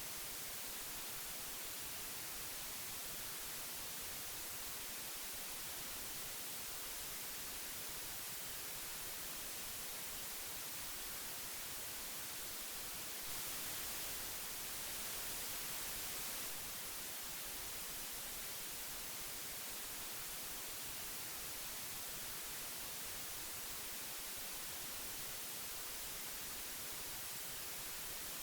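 Old magnetic tape hiss: a steady, even hiss strongest in the high frequencies, swelling slightly louder for about three seconds near the middle.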